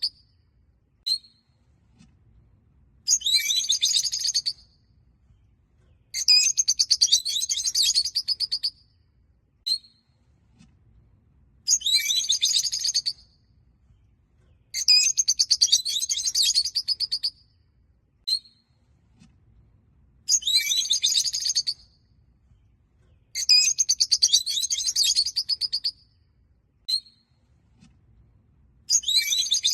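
Rosy-faced (peach-faced) lovebirds chattering: bursts of rapid shrill chirps, each a second or two long, every few seconds, with a single short chirp in most of the pauses.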